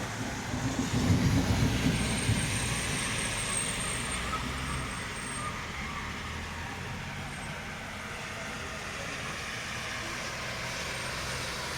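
Steady rain falling, an even hiss, with a low irregular rumble in the first two seconds or so.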